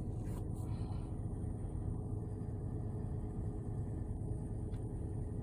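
Car engine idling steadily, a low rumble heard from inside the parked car.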